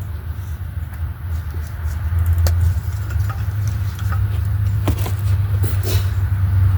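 A steady low rumble with scattered light clicks and knocks over it, a few sharper ones in the second half.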